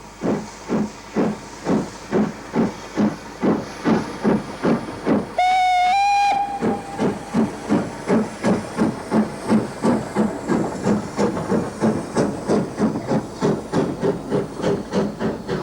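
Great Eastern J15 0-6-0 steam locomotive working hard under way, its chuffing exhaust beats quickening as it gathers speed. About five seconds in, its whistle sounds once for about a second, stepping up slightly in pitch.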